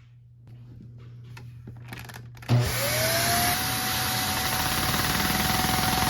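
A few light clicks of handling, then a small electric motor in the Lego vacuum truck switches on about two and a half seconds in, its whine rising quickly to a steady high pitch over a loud whir.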